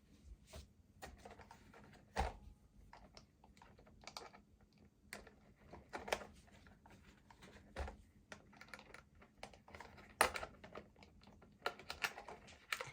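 Irregular small clicks, taps and rattles of hard plastic being handled as the RC truck's plastic body shell is fitted onto the chassis, with louder knocks about two seconds in and again about ten seconds in.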